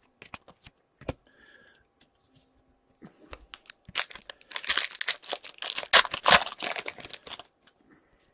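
Foil wrapper of a hockey card pack being crinkled and torn open: a few scattered clicks, then a dense run of crackling from about three seconds in until near the end.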